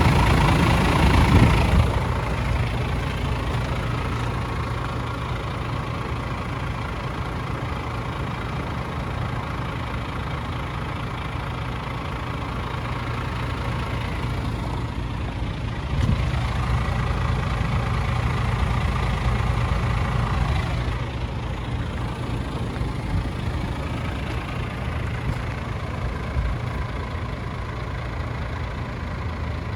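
A DAF CF truck's Paccar 450 bhp Euro 6 diesel engine idling steadily. It is louder for the first couple of seconds, and again for a few seconds about halfway through.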